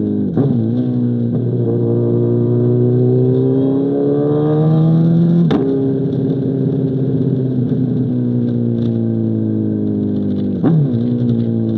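2005 Honda CBR1000RR's inline-four through an SC Project CR-T exhaust, pulling hard with the engine note climbing for about five seconds. A sharp gear change about halfway through drops the pitch, then the note slowly falls off, with another sharp change near the end.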